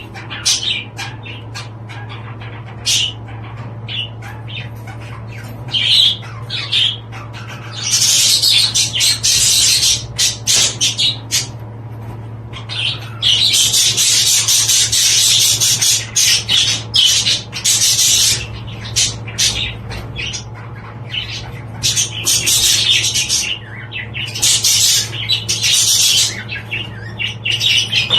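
Budgerigars chattering and squawking in shrill spells, some running on for several seconds, over a steady low hum.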